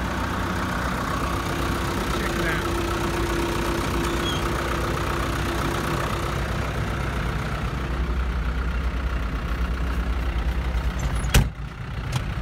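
An engine idling steadily with a low rumble, with a sharp click near the end.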